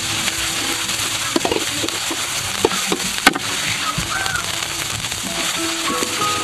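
Duck egg ovaries sizzling as they are stir-fried in a steel wok, with a metal spatula scraping the pan and knocking against it a few times. Soft background music plays underneath.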